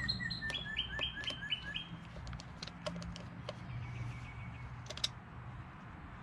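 A songbird singing a rapid series of repeated short notes, the phrase shifting slightly lower in pitch partway through, over about the first two seconds, with a fainter note later. Scattered sharp clicks and taps sound through it, the loudest about five seconds in.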